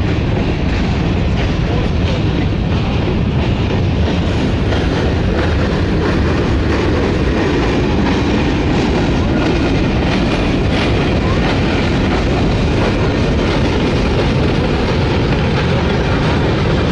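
Freight cars of a long mixed train rolling past: a steady rumble of steel wheels on the rails, with faint repeated clicks as the wheels cross rail joints.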